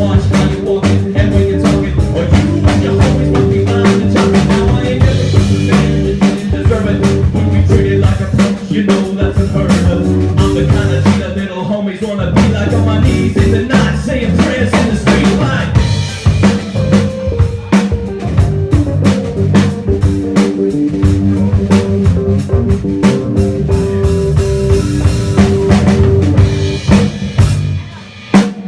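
Live rock band playing an instrumental passage: drum kit hitting a busy beat over bass, guitar and keyboard. The band drops out briefly near the end, then the drums come back in.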